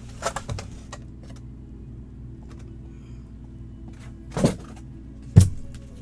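A few short knocks and scrapes of a boxed 16x20 photo and its packaging being handled, a cluster in the first second and two sharper knocks near the end, the last the loudest, over faint steady background music.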